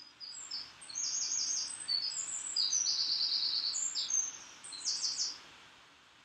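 Songbird singing a fast, high-pitched song of chirps and rapid trills, which stops about five and a half seconds in.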